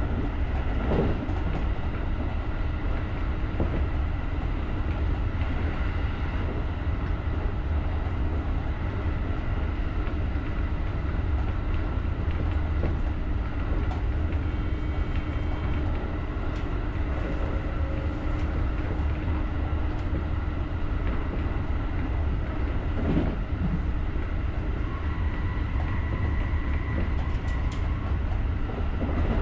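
JR rapid electric commuter train running along the line: a steady rumble of wheels on rails with a faint steady hum and a few light clicks.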